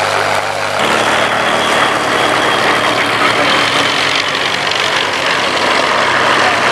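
Piston aero engines of the Bristol Blenheim and Spitfire formation, Bristol Mercury radials and Rolls-Royce Merlins, droning steadily in flight. The sound changes abruptly about a second in.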